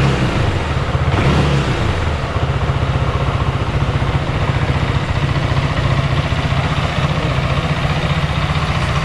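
FB Mondial HPS 300 motorcycle's single-cylinder engine idling through its stock exhaust, with a short throttle blip about a second in before settling back to a steady idle.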